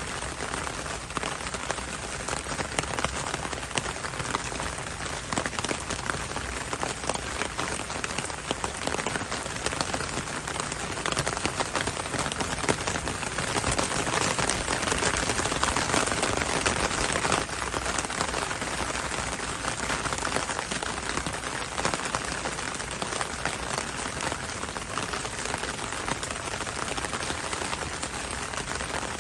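Heavy rain falling steadily, a dense patter of many drops on hard surfaces, swelling a little louder about halfway through.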